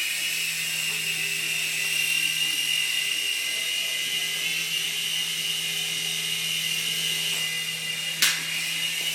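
Micro radio-controlled helicopters' small electric motors and rotors running with a steady high-pitched whine over a low hum. A single sharp click comes about eight seconds in.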